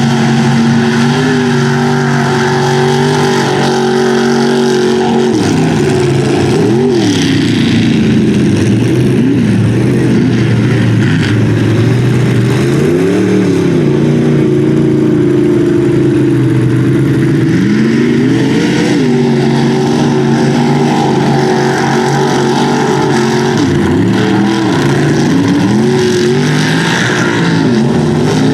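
Big-block V8 engine of a mud truck running hard at high revs, its pitch swinging up and down several times as the throttle is worked.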